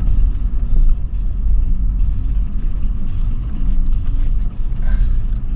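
2013 Toyota 4Runner SR5's 4.0-litre V6 running as the SUV drives over sand dunes: a steady low rumble of engine and driving.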